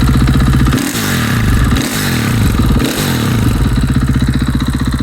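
KTM EXC 500 single-cylinder four-stroke motorcycle engine with an Akrapovic exhaust, idling, then revved in a few quick throttle blips from about a second in before settling back to a steady idle.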